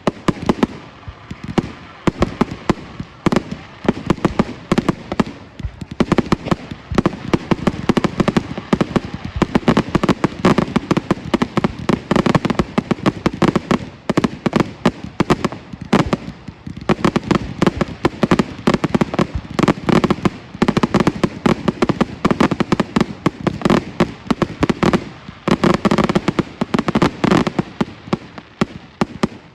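Fireworks display going off: a dense, rapid barrage of sharp bangs and crackles, with no let-up.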